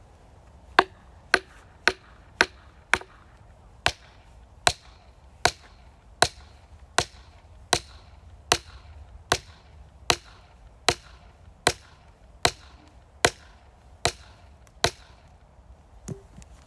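Firewood being chopped with an axe or hatchet: about nineteen sharp strikes, a quick run of five in the first three seconds, then a steady stroke roughly every 0.8 seconds, the last one weaker.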